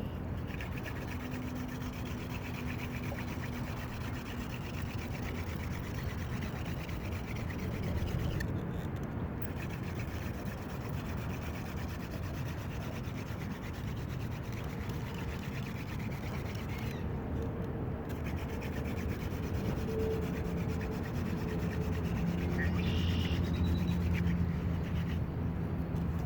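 A wooden hand-drill spindle is being twisted back and forth between the palms, rubbing and grinding in the notch of a wooden fireboard to try to raise a friction-fire ember.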